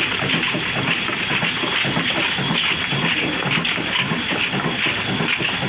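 Old Ruston diesel engine running with a slow, even beat of about three beats a second, over a steady rushing noise.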